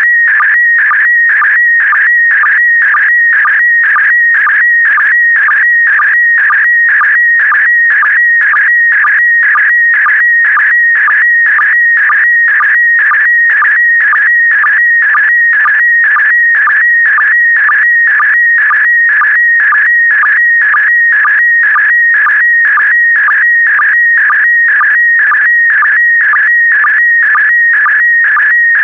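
Slow-scan TV (SSTV) image transmission in PD120 mode: a loud, warbling electronic tone centred high in pitch that shifts constantly as the picture data is sent, with a regular sync blip about twice a second.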